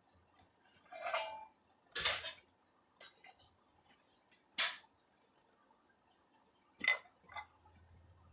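Metal tools and steel stock clanking as they are handled: a handful of separate, irregular knocks and clinks, the loudest about two seconds and four and a half seconds in, with a brief rattling scrape near the start.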